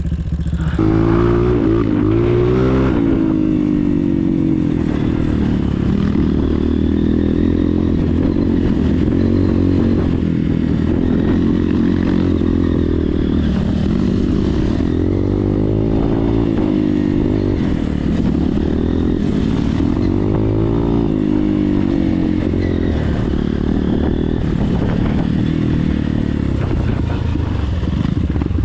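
Motocross dirt bike engine under way, its pitch rising and falling over and over as it accelerates and backs off along the track.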